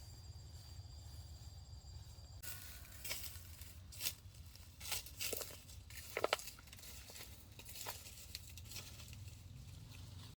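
Dry leaves rustling and crackling, with several sharp snaps and knocks through the middle, as sugarcane is handled. It is preceded by a steady low hum and a thin high insect drone for the first couple of seconds.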